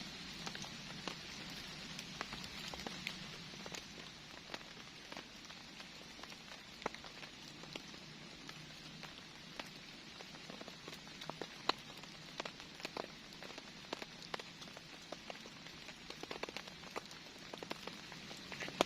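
Steady rain falling, with individual drops landing close by as scattered sharp ticks.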